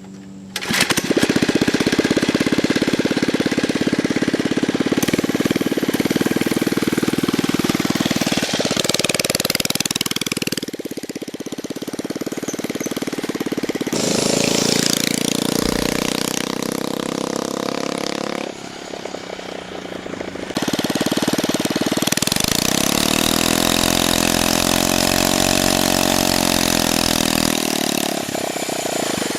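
Small Predator 79cc single-cylinder four-stroke engine on a scooter running under throttle while ridden, its pitch rising and falling, with several abrupt changes in sound along the way.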